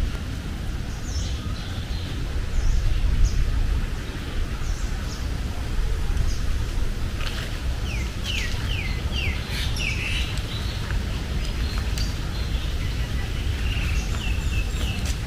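Birds chirping and calling, with a quick run of about five falling notes a little past the middle, over a steady low rumble.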